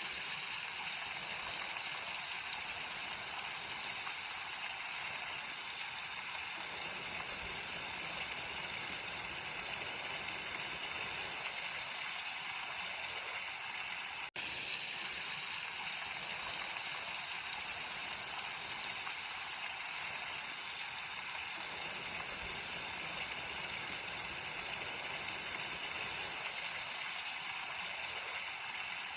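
Mountain stream flowing steadily over rocks, an even rushing water sound, with a split-second dropout about halfway through.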